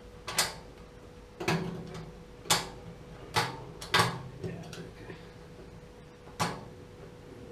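Six sharp metal taps at uneven intervals as a tool is tapped down on a sheared-off screw to break it, over a faint steady hum.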